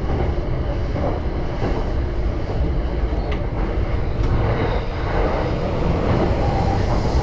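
Cabin noise inside a JR Yamanote Line commuter train running between stations: a steady rumble of the wheels on the rails, with a few faint clicks.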